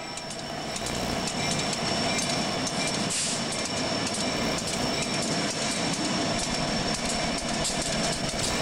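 Freight train rolling past, its wheels rumbling and clattering over the rails, with a thin steady high-pitched squeal above the rumble.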